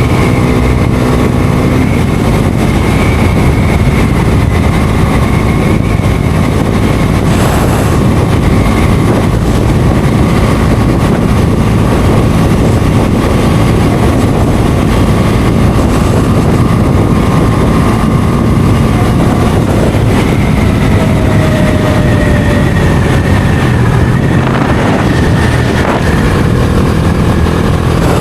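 Bajaj Dominar 250 single-cylinder motorcycle engine running steadily under way, mixed with heavy wind rush, its pitch drifting only slowly.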